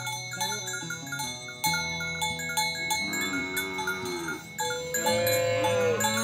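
Cattle mooing twice over background music: a drawn-out arched call about halfway through, then a call that falls in pitch near the end. The music has quick repeating plucked notes over steady held tones.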